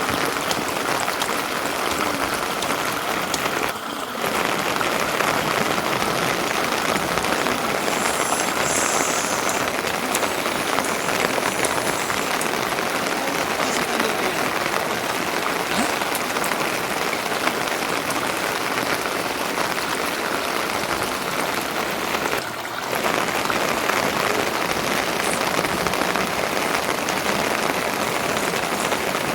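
Rain falling steadily and heavily, an even hiss of drops that dips briefly twice.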